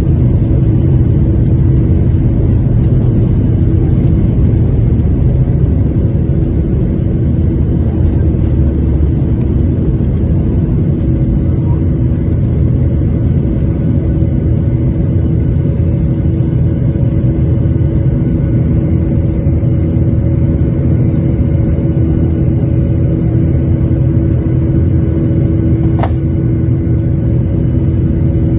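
Steady engine hum and low rumble of a Boeing 737-800's CFM56-7B engines, heard from inside the passenger cabin. A single brief click about 26 seconds in.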